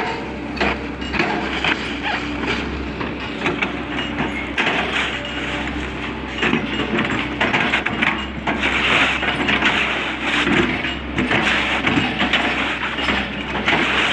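Hydraulic excavator at work: its engine runs with a steady low hum under continual irregular clanks, creaks and crunching.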